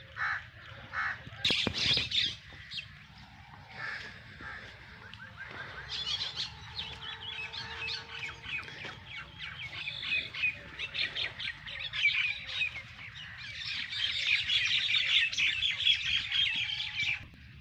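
Small birds chirping in a busy chorus of quick high notes that grows denser about halfway through and is fullest near the end. A single sharp click about one and a half seconds in.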